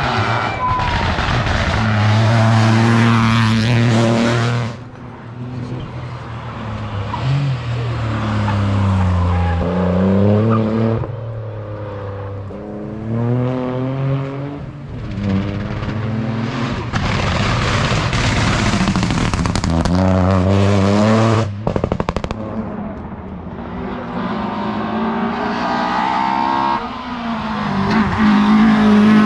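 Modern rally cars at full attack on a special stage, engines revving hard, the pitch repeatedly climbing through the gears and dropping on downshifts and lifts. It comes as several separate passes with abrupt cuts between them.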